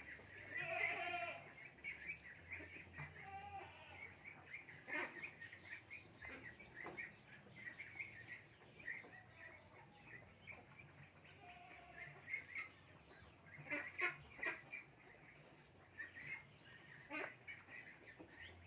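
Poultry chirping: a steady run of short, high peeping calls, with a few sharp knocks about five, fourteen and seventeen seconds in.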